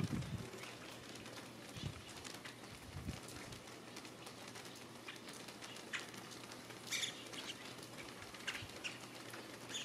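Birds chirping: faint, short calls scattered a second or more apart, the clearest one about seven seconds in.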